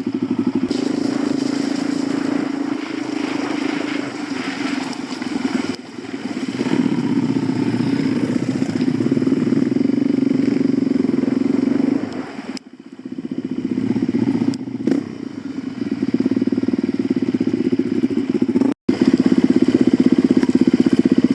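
Suzuki DR-Z400 dirt bike's single-cylinder four-stroke engine running under throttle. It eases off briefly about six seconds in and again around twelve to thirteen seconds in, picking back up each time. It cuts out for an instant near the end.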